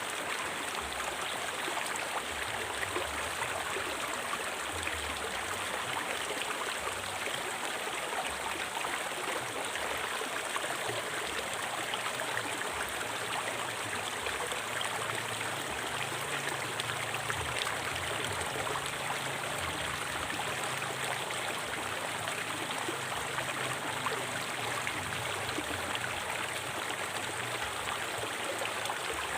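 River water flowing steadily over rocks, a constant rushing with gurgling.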